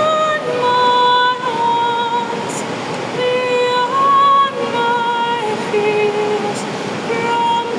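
A woman singing a slow song with long held notes and gliding changes of pitch, over the steady hiss of heavy rain.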